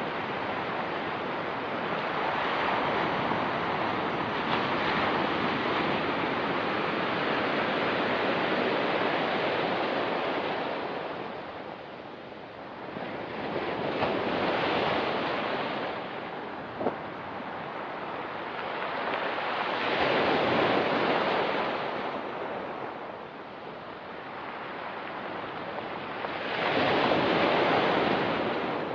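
Ocean waves breaking and washing on a pebble beach, the surf rising and falling in swells every several seconds, with a brief sharp click about two-thirds of the way through.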